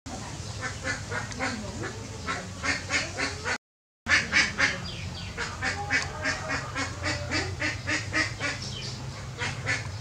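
Birds calling in a rapid run of short, repeated notes, about three a second, loudest just after a brief dropout a little before halfway, over a low steady hum.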